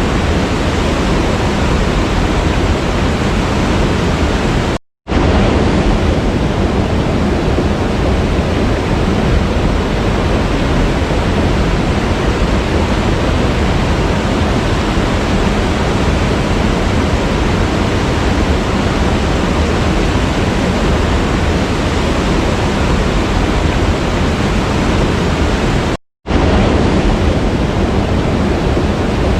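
Waterfall's steady rush of falling water, a dense even noise. It cuts out to silence for a split second twice, about five seconds in and a few seconds before the end.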